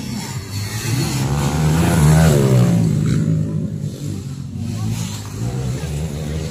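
Motocross dirt bike engines revving, the pitch rising and falling with the throttle, loudest about two seconds in.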